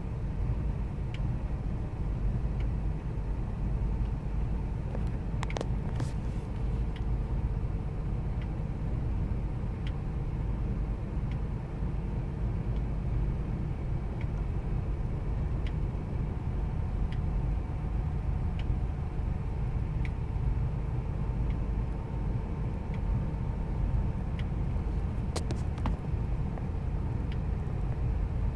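2000 Ford Expedition's 5.4-litre V8 idling steadily with a low rumble, the rough idle the owner is showing, with faint light ticks about once a second and a couple of sharper clicks.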